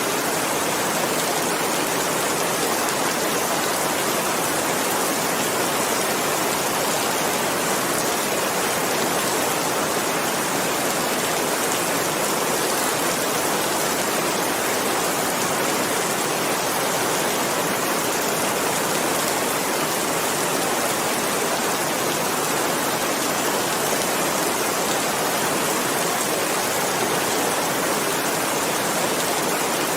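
Steady, continuous rain: an even hiss with no distinct drops, thunder or other events.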